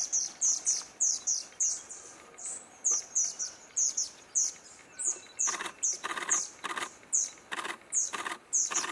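A small bird calling a rapid series of short, high, falling chirps, about three a second, with harsher scratchy notes among them from about five seconds in.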